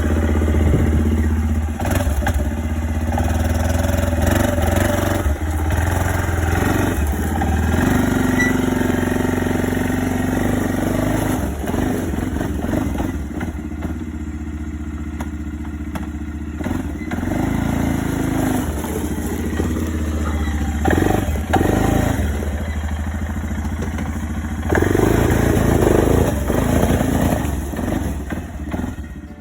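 An engine running steadily, with a constant low hum that rises and falls in level a few times.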